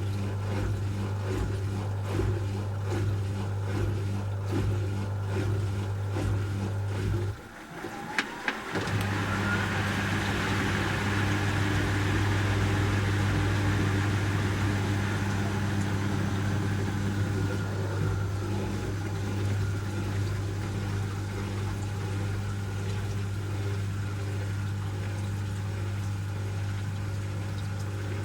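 Asko Quattro W6098X washing machine in its final spin, a steady motor hum. About seven seconds in the sound drops out briefly with a couple of clicks, then a whine rises in pitch as the drum speeds up again, holds and fades away over the next several seconds.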